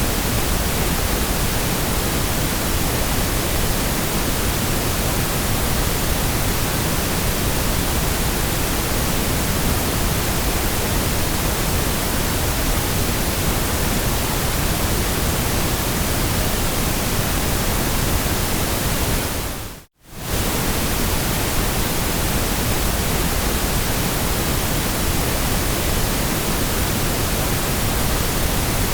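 Steady white noise, an even hiss across all pitches. About twenty seconds in it drops out to a moment of silence and comes straight back.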